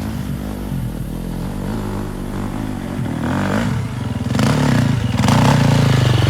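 Off-road vehicle engine running under way, then revving up and getting louder about four seconds in.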